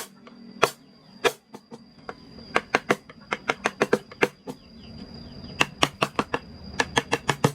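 Mallet striking a carving chisel into wood: sharp, irregular taps coming in quick runs of several a second, with brief pauses between runs.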